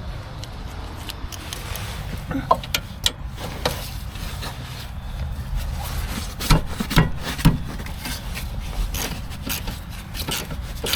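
Scattered clicks, knocks and scraping of hand tools and metal parts being handled at the wheel during a brake job, with a few sharper knocks a little past the middle.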